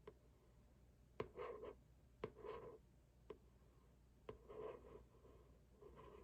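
Faint, slow taps about once a second, most followed by a short scratching rub: fingernails tapping and scratching on a cardboard box.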